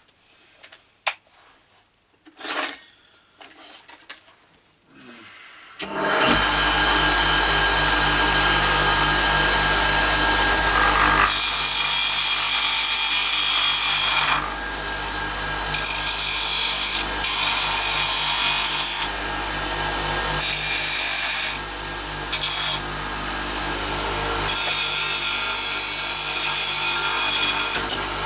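Black & Decker No 605 Type A 6-inch, 1/4 hp bench grinder, repaired and working: after a few faint handling clicks it is switched on about six seconds in and runs with a steady hum. Work is ground against the wheel in passes, so the harsh grinding noise comes and goes with short breaks.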